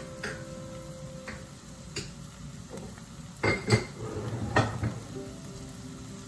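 Tomatoes and onions sizzling steadily in a frying pan, with a few light clinks early on and two loud bursts of clattering kitchenware, about three and a half and four and a half seconds in.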